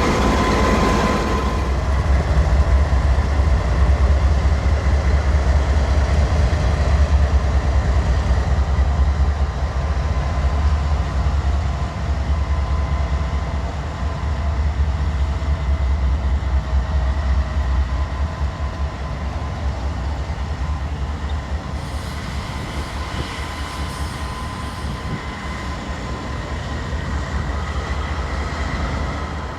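A train rolling past with a heavy, steady rumble of cars and wheels on the rails, easing a little in the second half, with a faint steady high tone above it.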